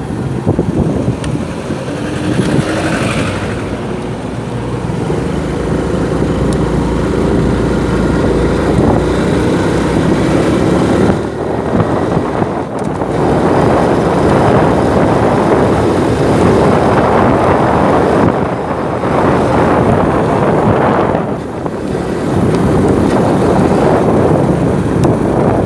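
Motorcycle engine running on the move, heard from the bike with heavy wind on the microphone. The engine note climbs through the first ten seconds, then the wind rush surges and eases a few times.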